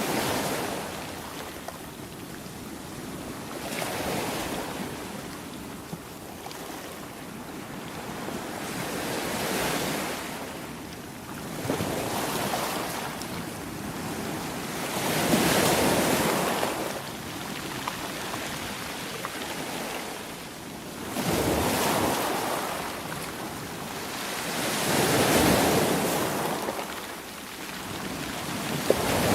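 Ocean waves breaking and washing in, swelling and fading every three to six seconds, with some wind on the microphone.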